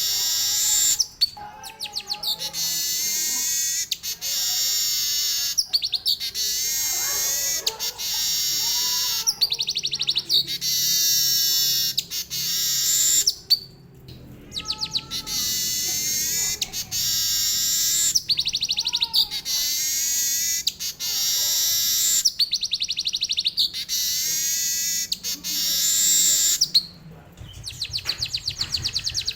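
Manyar (weaver bird) singing long, continuous canary-style phrases of fast trills and warbles, with a few short breaks.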